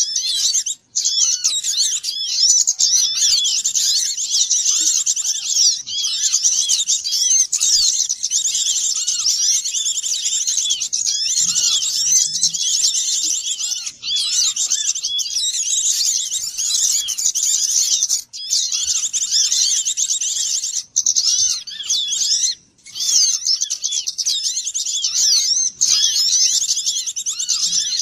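Dense, continuous twittering and chirping of many small songbirds calling over one another, high-pitched, with a few brief dropouts where the recording is spliced. It is a bird-trapping lure recording of excited small birds, made to draw other small birds in.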